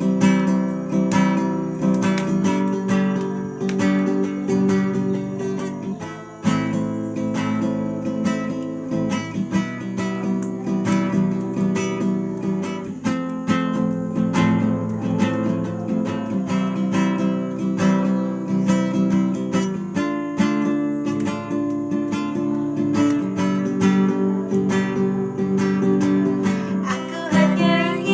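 Acoustic guitar strumming chords in a steady rhythm, an instrumental introduction with no singing.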